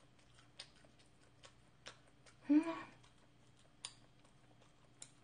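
A person eating close to the microphone: scattered sharp mouth clicks and smacks while chewing, with a brief voiced sound, like a hum of enjoyment, about two and a half seconds in.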